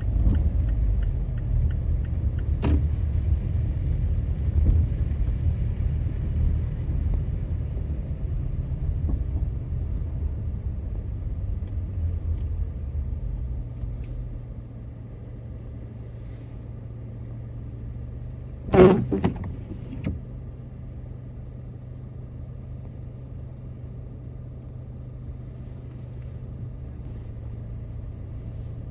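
Car driving on city streets: a steady low road and engine rumble that eases off about halfway through as the car slows, leaving a quieter hum. A loud, sudden thump about two-thirds of the way in is followed by a smaller one.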